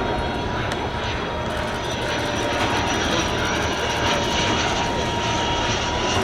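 Panavia Tornado's twin RB199 turbofan jet engines running: a steady jet noise with a thin high whine, growing slightly louder about two seconds in.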